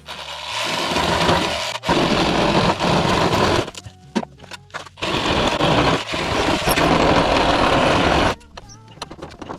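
Cordless power saw cutting into the wood of a door, run in three bursts, with short pauses between; the last burst is the longest, about three seconds.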